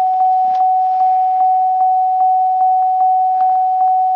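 2001 Chevy Malibu's dashboard warning chime dinging steadily, about two and a half dings a second on one unbroken tone, sounding with the ignition key switched off.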